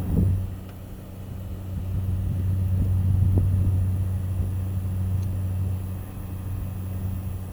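XFX Black Edition 1050 W computer power supply buzzing under LinX stress-test load, a sign of coil noise in the supply. It is a low, steady hum that swells and fades in loudness over a few seconds.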